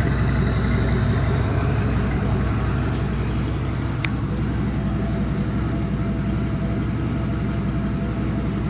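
Chevy 5.3L LM7 Vortec V8 idling steadily on an engine run stand, partly warmed up, running smoothly with no clattering or squeaking. A brief click sounds about four seconds in.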